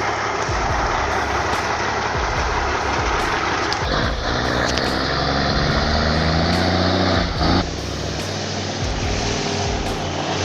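Heavy truck engine running hard. About four seconds in, a steady engine tone rises above the noise, then it cuts off suddenly after about three and a half seconds.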